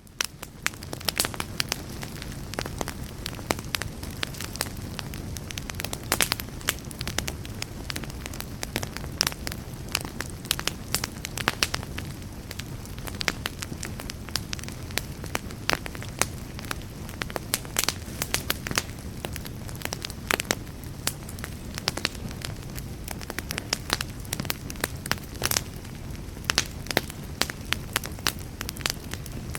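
Wood fire burning in a fireplace, crackling with frequent irregular sharp pops over a low, steady rumble of the flames.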